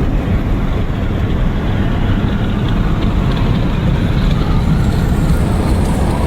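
Truck driving down the road, a steady rumble of engine and road noise heard from inside the cab.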